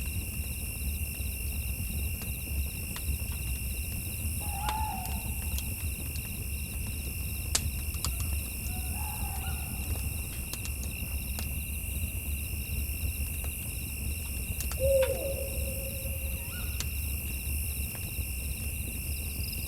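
An owl hooting three times in short, low calls, the last one loudest, over scattered crackling clicks and a steady high-pitched drone.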